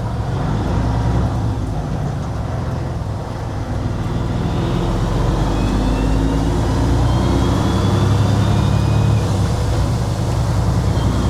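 Kenworth W900 semi truck's diesel engine running while driving, getting a little louder and rising slightly in pitch about four seconds in.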